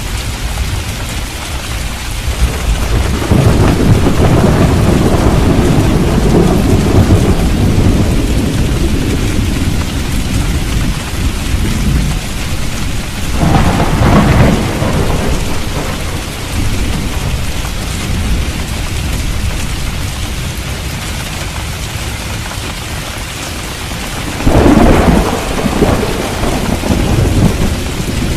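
Steady rain falling through a thunderstorm, with thunder rolling three times: a long low rumble a few seconds in, a shorter clap about halfway, and another near the end.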